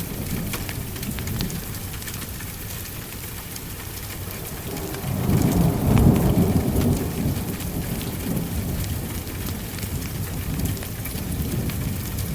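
Heavy rain falling steadily, with a low roll of thunder that swells about five seconds in and rumbles away over the next few seconds.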